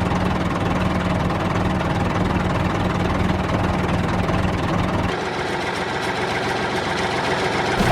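Vehicle engine idling steadily with a low hum; about five seconds in the low hum drops away, leaving a steady hiss.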